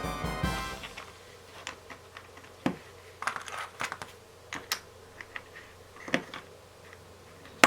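Small plastic LEGO bricks clicking and tapping as they are handled and snapped together, in irregular light clicks, with one sharp snap at the end.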